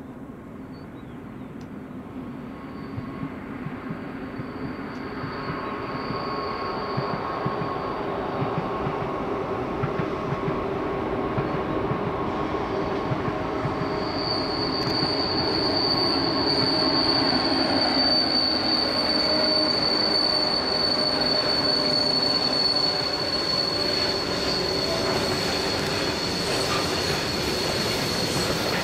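Train running on the rails and growing louder over the first half, then a steady high-pitched wheel squeal sets in about halfway through and holds over the rumble of the wheels.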